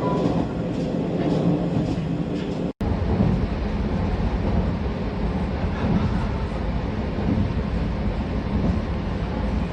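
Steady cabin noise of the WEST EXPRESS Ginga train, a converted 117-series electric multiple unit, running with a low rumble. It breaks off to silence for an instant about three seconds in.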